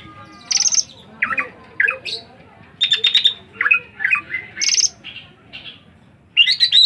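A bird chattering: about a dozen short bursts of shrill calls, some rapid clusters of high notes, others quick downward-sweeping squawks, with short gaps between them.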